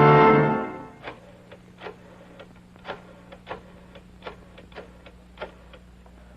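A brass music sting dies away in the first second. After it come about fifteen light, irregular clicks or taps over a faint steady hum.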